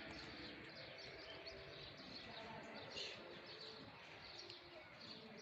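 Many small birds chirping faintly and continuously, with short high calls overlapping.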